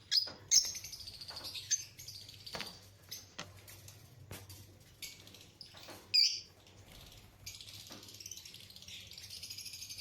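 Pet parrot chirping and chattering in bursts, with one sharp, loud call about six seconds in and scattered short clicks between the calls.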